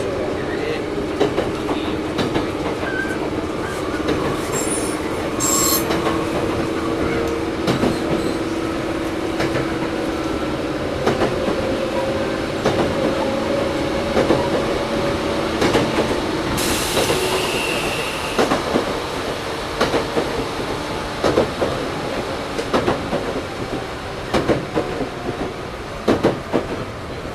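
Interior running sound of a Toyohashi Railway 1800 series electric car (a former Tokyu 7200 series with resistance control): a steady motor and gear hum with scattered rail-joint clicks. About 17 seconds in there is a brief high hiss with a thin squeal lasting a couple of seconds.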